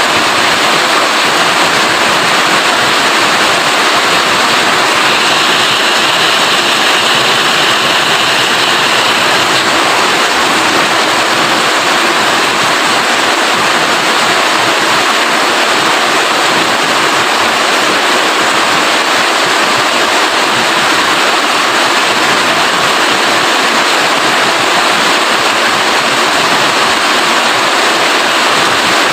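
Rain falling steadily: a dense, even hiss without pause, a little brighter for a few seconds about five seconds in.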